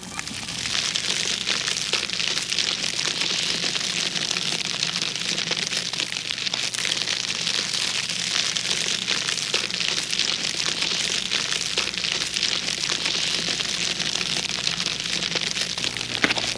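Wood fire crackling in a fireplace: a steady hiss dotted with many small pops, over a faint low hum.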